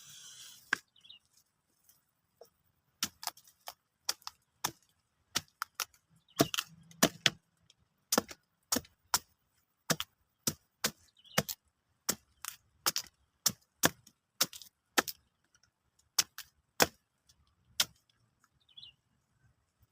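Knife chopping raw papaya on a cutting board: sharp, irregular knocks about one or two a second, thickest in the middle and thinning out near the end.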